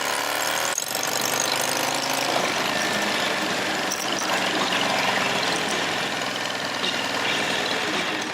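Motorcycle engine running under way, its pitch rising as it accelerates. A short break comes about a second in, and then it climbs again.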